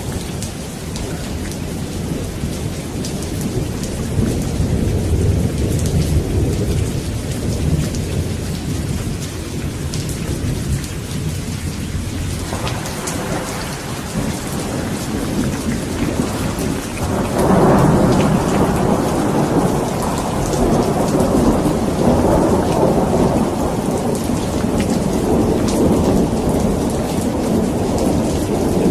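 Steady rain falling with rolling thunder rumbling underneath. About two-thirds of the way through, a louder peal of thunder swells in and keeps rumbling.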